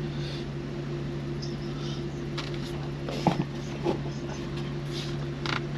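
A vehicle idling with a steady low hum, with a few faint clicks and knocks about midway and near the end.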